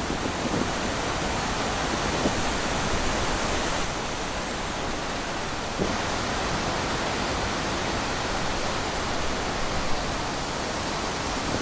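Steady wind, an even rushing hiss with little rise and fall.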